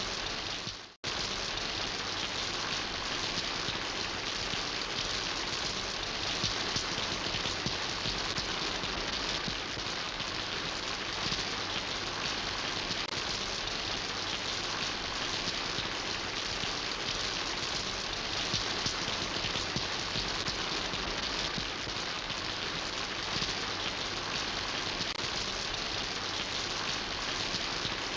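Steady rain falling and pattering on surfaces. About a second in, the sound fades away to a brief silence and then cuts straight back in.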